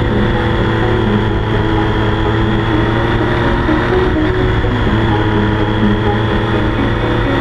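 Sport motorcycle engine running steadily at speed, with wind rushing over the helmet or body camera.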